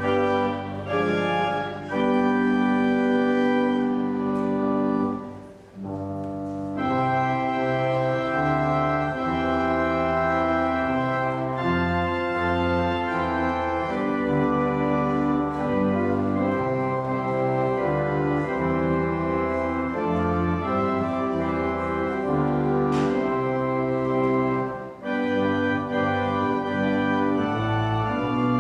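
Church organ playing slow sustained chords over a moving bass line, with a brief break in the sound about five and a half seconds in.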